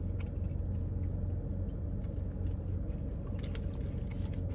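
Steady low hum of an idling car heard from inside the cabin, with scattered faint clicks and taps from handling and eating food.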